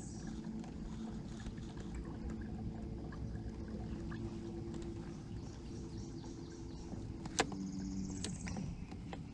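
A boat motor hums steadily. A sharp click comes about seven seconds in and another about a second later.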